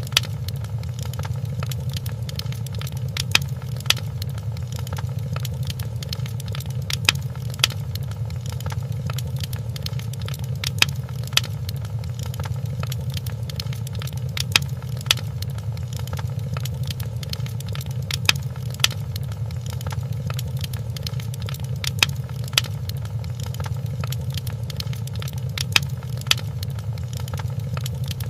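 Wood fire crackling in a fireplace: a steady low rumble of burning logs, broken every few seconds by sharp pops and snaps that often come in pairs about half a second apart.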